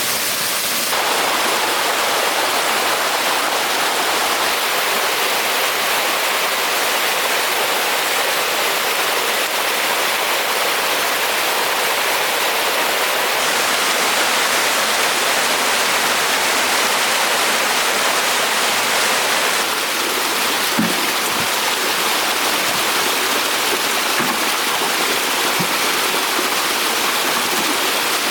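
Running water rushing steadily, like a stream or small waterfall, its tone shifting slightly a few times, with a few faint knocks in the latter half.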